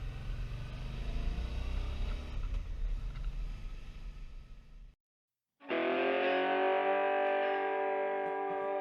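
A low rumbling noise fades out, and after a brief silence a distorted electric guitar chord starts and rings on steadily as background music begins.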